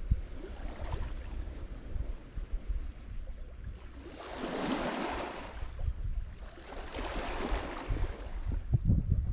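Lake Michigan waves washing onto the shore, swelling and falling away twice (about four and seven seconds in) and building again at the end. Wind buffets the microphone underneath.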